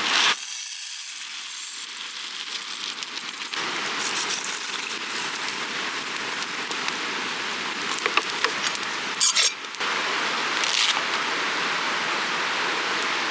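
Wood campfire crackling and hissing, with a few sharper pops in the second half.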